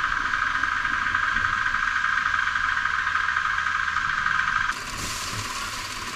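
A steady, loud hiss with no speech, which changes abruptly to a quieter, broader hiss about four and a half seconds in.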